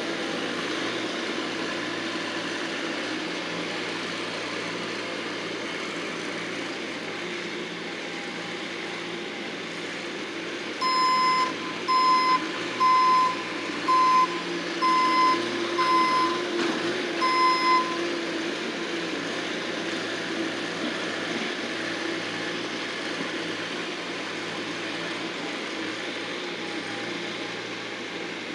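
Bobcat skid-steer loader's engine running steadily while it works, with its reversing alarm beeping about seven times, roughly once a second, starting about eleven seconds in.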